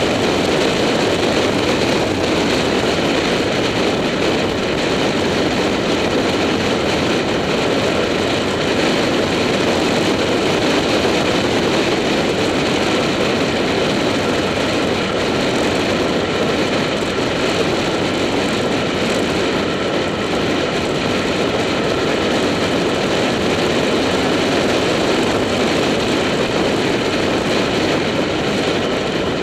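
Motorcycle riding at a steady cruise, its engine running at an even pitch under loud, steady wind and road noise.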